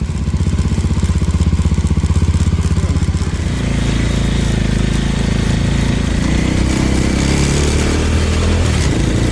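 Small touring motorcycle's engine ticking over with an even beat, then pulling away about three and a half seconds in and accelerating, its note climbing, with wind rush growing towards the end.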